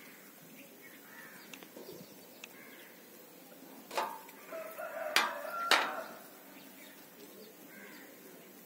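Bird calls in the background, with three sharp knocks and a short call between them about four to six seconds in.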